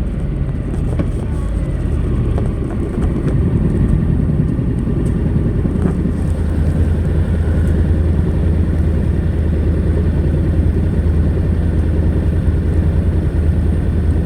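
Honda NC700X's 670 cc parallel-twin engine running through its stock exhaust with a steady low note. It dips slightly a couple of seconds in, then holds steady and a little louder.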